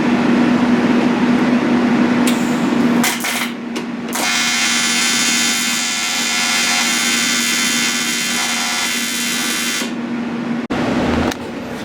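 A power tool runs with a steady hum for about three seconds. Then comes about six seconds of steady electric buzzing with many even overtones, which fits a welder putting a tack on the turbo cold-side charge pipe. It cuts off sharply near the end.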